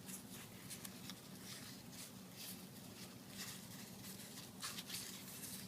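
Faint handling noise: light scattered clicks and rustles, with a steady low hum underneath.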